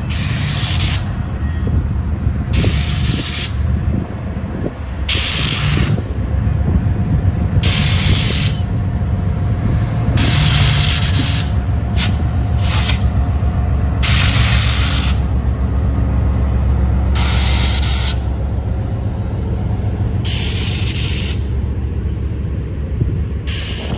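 Double-stack freight train passing close by: a heavy steady rumble of wheels on rail, with a mid-train GE ES44AC diesel locomotive working as a distributed power unit rolling past about halfway through. A hiss swells up about every two to three seconds as the cars go by.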